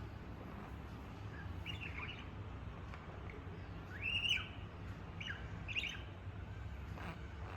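Pet budgie chirping: a handful of short chirps, the loudest about four seconds in, over a low steady hum.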